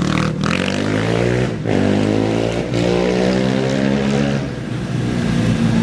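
An off-road race engine accelerating hard away from the start, its pitch climbing, then dropping at each of about three gear changes before climbing again.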